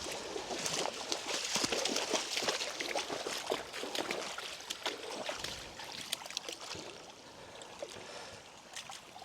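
Wellington-booted footsteps wading and sloshing through shallow floodwater on a path, irregular splashes that grow quieter in the last few seconds.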